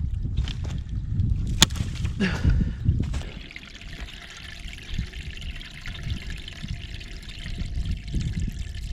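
Water dribbling in a thin steady trickle from the water tote's drain pipe, partly blocked by something stuck in the pipe. A few knocks and handling clatter come in the first three seconds.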